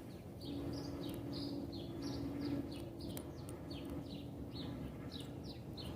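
Songbird chirping: a run of short, downward-slurred chirps, two or three a second, over a faint steady hum.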